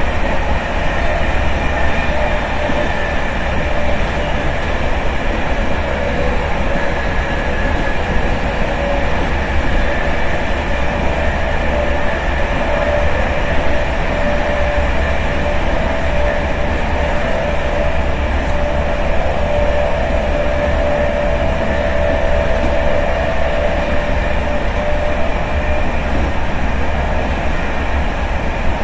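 Inside an intercity passenger train carriage under way: a steady rumble of wheels on rails with a faint constant hum over it.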